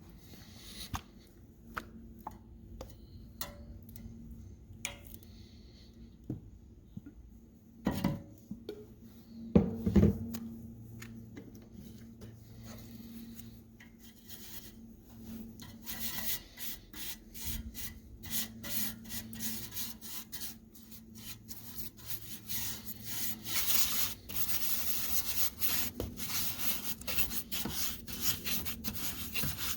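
Scattered taps and a few knocks as parts are handled, then, from about halfway through, quick back-and-forth rubbing strokes of hand sanding on a part of an antique kitchen scale.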